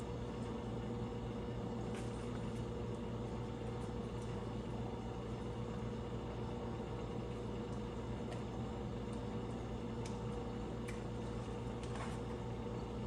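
Steady machine hum in a workshop, unchanging throughout, with a few faint light clicks from parts being handled.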